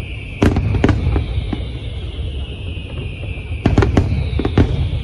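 Aerial fireworks bursting: a few sharp bangs in the first second, then a quick cluster of four or five around the four-second mark, over a continuous low rumble.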